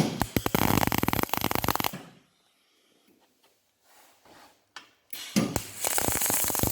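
Arc welder tack-welding a steel exhaust pipe joint: two spells of dense, even crackling, the first about two seconds long, the second starting about five seconds in.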